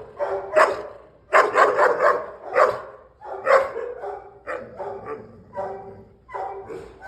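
A dog barking aggressively in a string of short barks, with a rapid run of three or four about a second and a half in, then single barks spaced through the rest.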